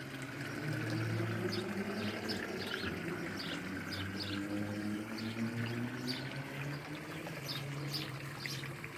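Small birds chirping repeatedly over a low, steady drone.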